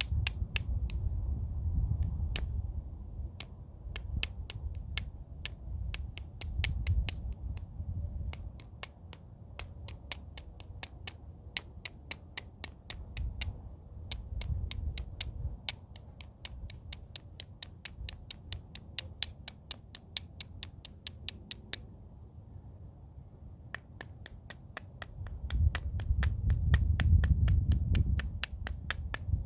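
Homemade bopper tapping a stone's edge in flintknapping, beveling and shaping it: quick, sharp clicks about four a second. The clicks pause for a couple of seconds about two-thirds of the way through, then carry on, with low rumbling handling noise beneath.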